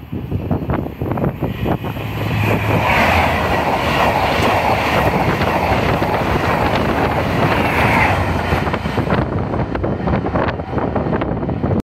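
High-speed train (HST, Mark 3 coaches) passing close by at speed on the main line. The rumble and rush of air, with rapid wheel clicks over the rail joints, builds about two seconds in, stays loud for about six seconds, then eases and cuts off abruptly near the end.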